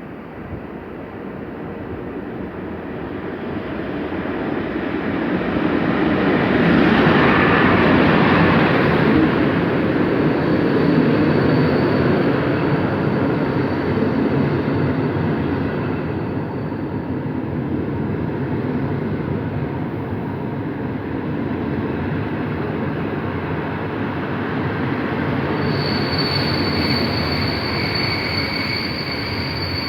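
Passenger train passing close by. Its rumble builds over about seven seconds, then runs on steadily as the cars go past, and a thin, high wheel squeal joins near the end.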